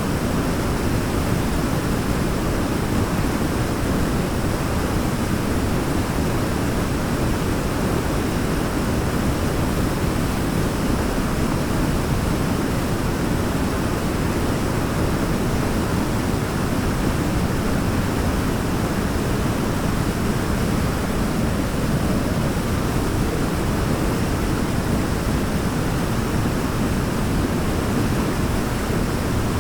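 Waterfall rushing steadily, an even low-heavy rush of falling water with no change in level.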